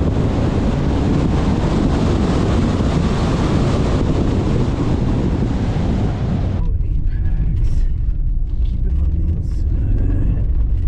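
Ford Focus RS driven hard on a loose dirt course: the engine runs under a dense hiss of tyres and loose gravel, which stops abruptly about six and a half seconds in and leaves the engine alone.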